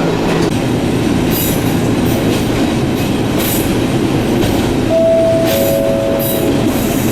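Echizen Railway train running along the line, heard from inside the car: a steady rumble of wheels on rail, with a brief two-note tone about five seconds in.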